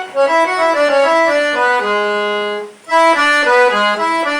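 Accordion (sanfona) playing a melody one note at a time. A longer held note comes about two seconds in and breaks off briefly before the quick notes resume.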